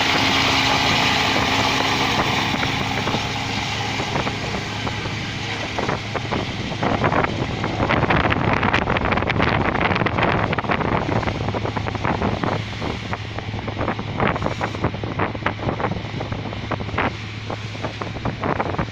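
Helicopter rotor and turbine noise fading over the first few seconds as it flies away from the tuna boat. Wind then buffets the microphone in gusts over the steady low hum of the ship's engine.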